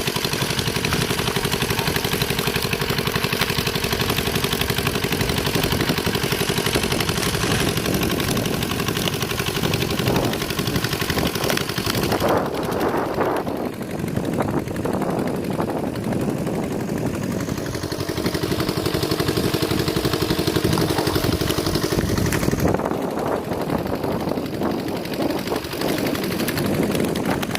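A small engine running steadily with a rapid, even chugging, its tone wavering slightly now and then.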